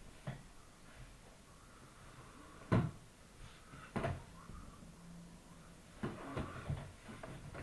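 Scattered knocks and thumps of something hard being handled or set down: a sharp one nearly three seconds in, another at about four seconds, and a run of lighter ones around six to seven seconds.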